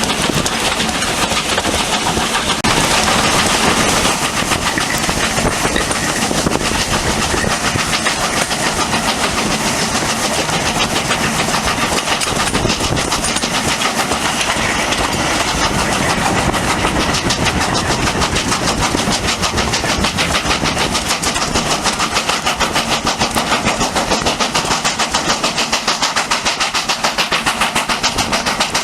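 Steam train running, with a fast, even rhythm of beats that stands out more clearly toward the end.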